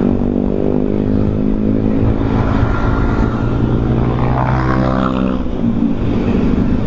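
Motorcycle engine running at a steady road speed while riding, its note holding even and wavering a little partway through, over road noise.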